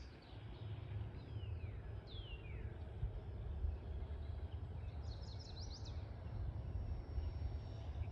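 Wild birds calling over a low wind rumble on the microphone: two descending whistled calls about one and two seconds in, then a quick run of high rising chirps about five seconds in.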